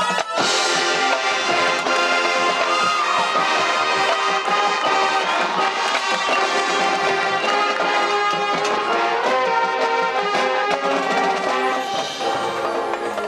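High school marching band playing its competition field show: the brass section holds loud sustained chords over the ensemble, opening on a sharp accent.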